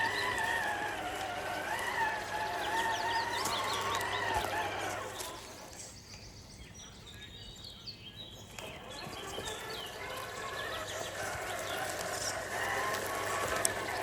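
Electric motor and gear drive of a 1/10 scale RC rock crawler whining, the pitch rising and falling with the throttle. It eases off for a few seconds midway and then picks up again, with small clicks from the drivetrain.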